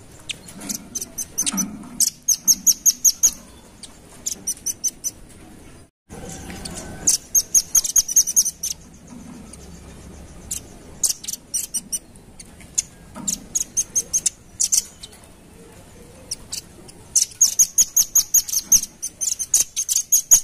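Velvet-fronted nuthatch calling: fast runs of sharp, high-pitched chipping notes in repeated bursts of a second or two, with a brief break about six seconds in.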